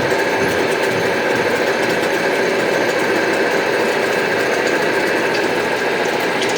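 Arad SNA500x1000 metal lathe running, its headstock making a steady mechanical noise with a few held tones.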